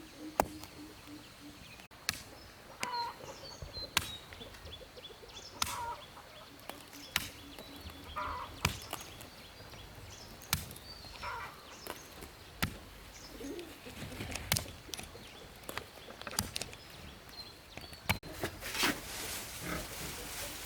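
Fowl calling in short clucks, with a sharp knock every second or two.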